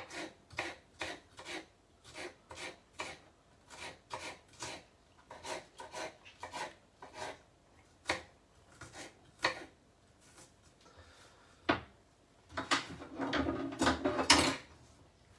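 Kitchen knife chopping a spring onion on a cutting board, with steady knocks about two a second. Near the end the knife work turns louder and denser for about two seconds.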